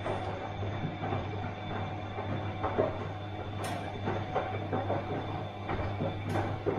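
Bosch washing machine running: a steady low hum with irregular clicks and knocks, two of them sharper, about halfway through and near the end.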